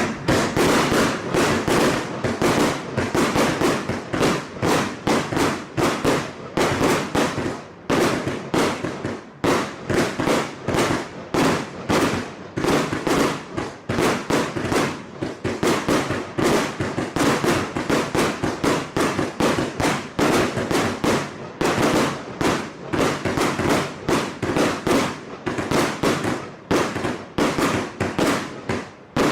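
96-shot compound firework cake firing a rapid barrage, shot after shot at about three a second, with a brief lull about eight seconds in.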